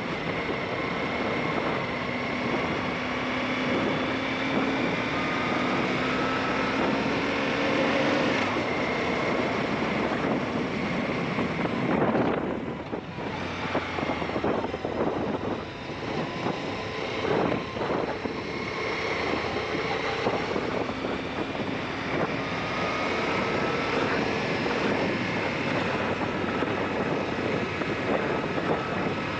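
Aprilia Shiver 750 motorcycle's V-twin engine running under way, its pitch rising and falling with throttle and gear changes, with a brief dip about twelve seconds in. Heavy wind noise buffets the camera microphone.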